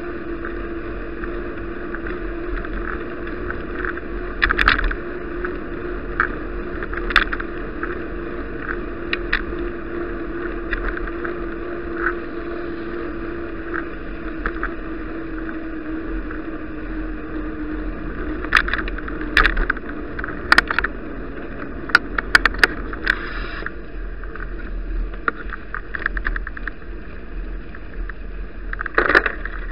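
Riding noise picked up by an action camera on a moving bicycle: a steady rush of tyre, road and wind noise, broken by sharp rattles and knocks as the bike goes over bumps, thickest about 19 to 23 seconds in and again near the end. Under it a faint hum slowly drops in pitch and fades out about 17 seconds in.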